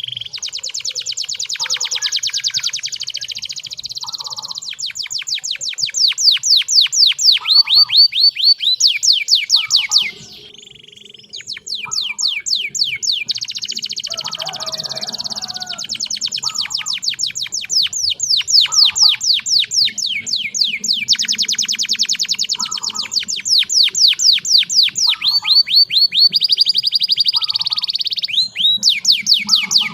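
Canary singing a long song of fast trills and rolls of rapidly repeated high notes, with a short break about ten seconds in.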